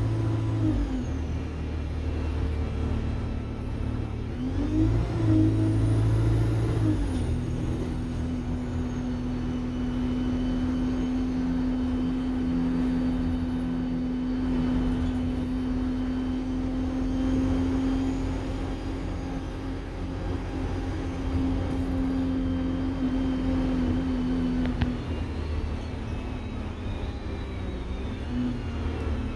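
Alexander Dennis Enviro200 single-decker bus's diesel engine pulling away twice, each time with a high turbocharger whine that rises and falls, then running steadily with a held tone.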